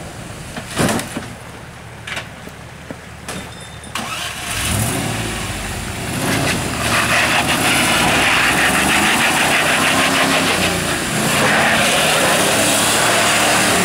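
Land Rover Discovery engine revving up hard about four seconds in and then running loud under heavy load as the 4x4 climbs over boulders. A few sharp knocks come in the first few seconds.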